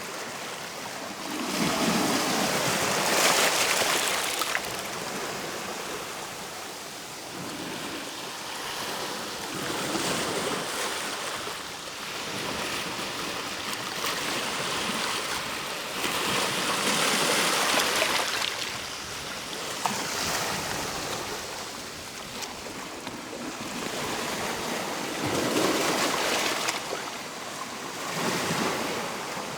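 Ocean waves breaking and washing up the shore, swelling into a surge about every seven or eight seconds.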